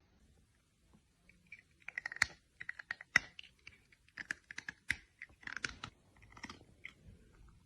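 Irregular small clicks and crackles, a few to several a second, starting about two seconds in.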